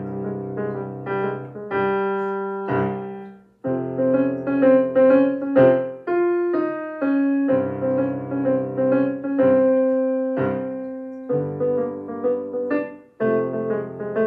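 Solo piano playing a jazzy minor-key piece at a creeping, swaggering tempo: detached chords over a low bass line, with short pauses between phrases about three and a half seconds in and near the end.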